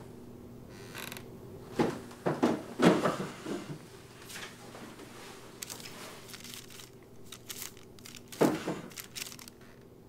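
Rummaging through a wooden desk drawer: a few creaks and knocks of the drawer and papers being handled and shuffled, loudest about two to three seconds in and again about eight seconds in.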